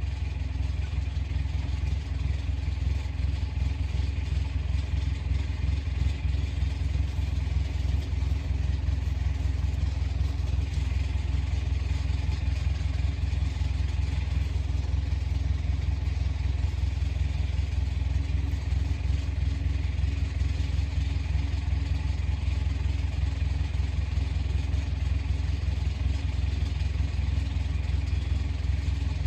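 Komatsu bulldozer's diesel engine running steadily, a low, even drone.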